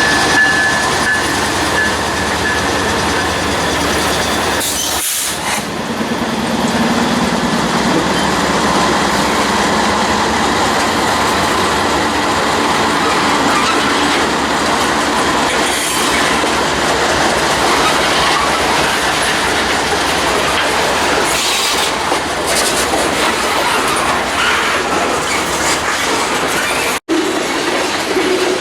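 Norfolk Southern freight train rolling along the track, its cars clicking over rail joints steadily, with a high wheel squeal near the start. The sound cuts out suddenly for a moment near the end.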